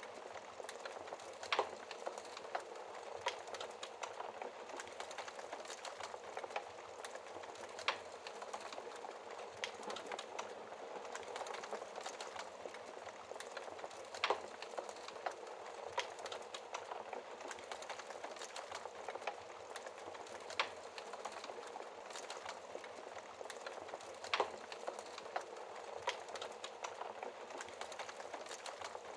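Wood fire burning in a fireplace: a steady soft hiss of flames with constant small crackles and a sharp louder pop every few seconds.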